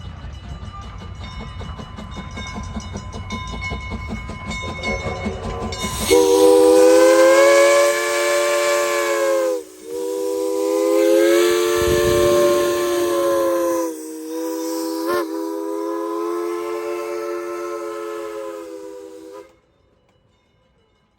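A locomotive's chime whistle blows a chord of several tones in three long blasts, starting about six seconds in; the pitch bends slightly as each blast opens and closes. Before the whistle, the train's running gear and wheels on the rails make a low steady rumble.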